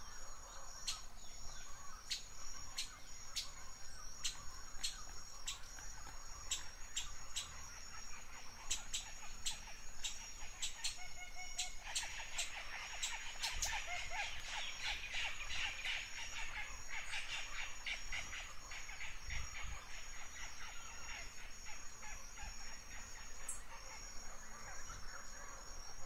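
Forest birds calling: sharp chip notes repeated about twice a second through the first half, then a dense, rapid song in the middle, over a steady background rush.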